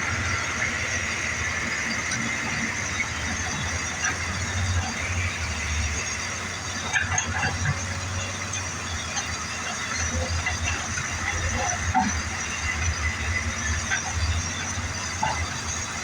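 Excavator diesel engines running under load, with high metallic squealing from the working machine and a few sharp clanks, the loudest about seven and twelve seconds in.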